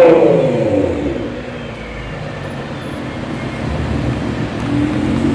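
Car engine's revs falling away and fading after a loud rev, then a steady engine note building up again near the end.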